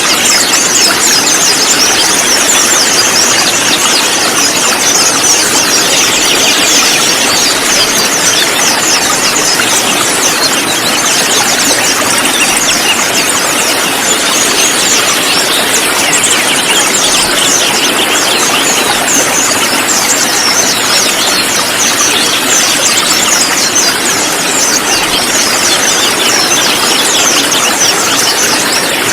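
A flock of konin flowerpeckers giving a dense, unbroken stream of high, thin chattering calls, many birds at once over a noisy hiss.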